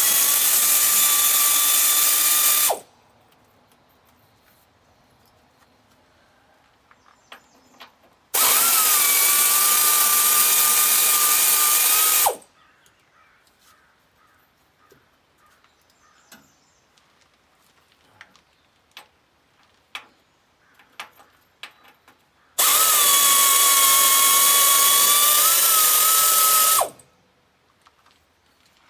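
A power drill running in three bursts of about three to four seconds, each with a steady whine, at the start, around a third of the way in and near the end: backing out the fasteners of an excavator's engine compartment cover. Small clicks and knocks of handled parts come between the bursts.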